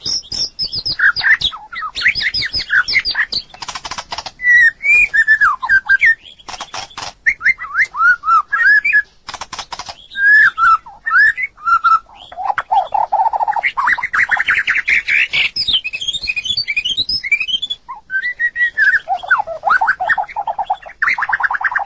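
White-rumped shama singing: a long, varied song of sliding whistled phrases and rapid runs of notes, broken by harsh, rattling clicks.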